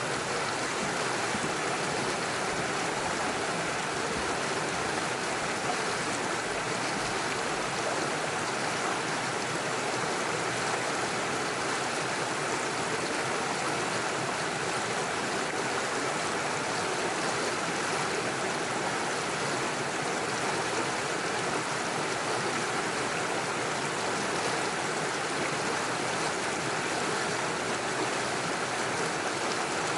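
Small stream running over stones and little waterfalls, a steady rushing and gurgling of water.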